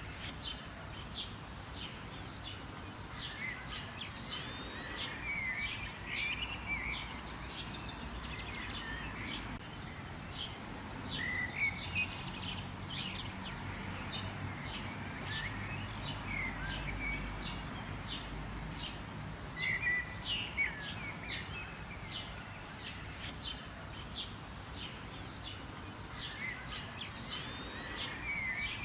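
Many small birds chirping and calling at once: a dense, unbroken stream of short high chirps and trills over a steady low background noise.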